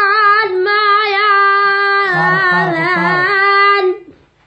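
A high solo voice singing an Iraqi folk song unaccompanied, holding one long wavering note that stops about four seconds in.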